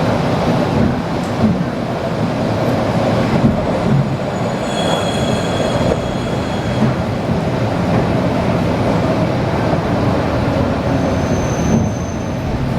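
ED4M electric train heard from inside the car: a steady rumble of wheels and running gear, with brief high metallic squeals about five seconds in and again near the end.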